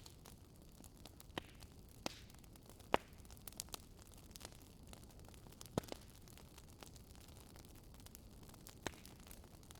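Wood fire crackling in a fireplace: a faint steady hiss with irregular sharp pops and snaps every second or so, the loudest pop about three seconds in.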